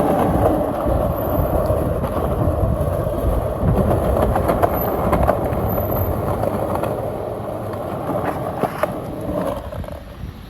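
Skateboard wheels rolling steadily over pavement, with a few clicks near the end as the rolling noise dies away.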